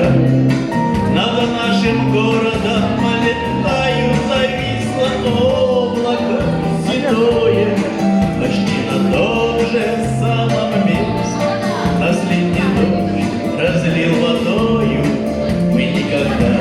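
A song with instrumental accompaniment and a steady bass line, with a man singing over it.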